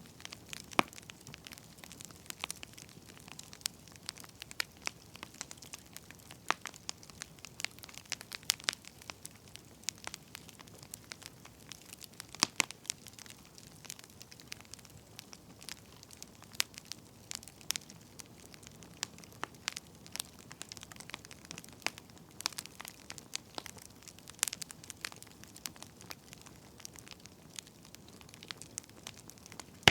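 Burning firewood crackling, with irregular sharp pops and snaps over a faint steady hiss.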